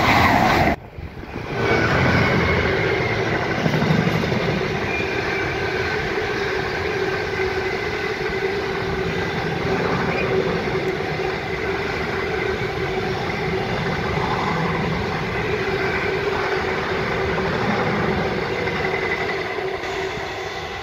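A Voyager diesel unit passes close by for under a second, then the sound cuts. After that comes the steady rolling rumble and clatter of a long intermodal container train's wagons running past, with a steady droning tone through it, fading a little near the end.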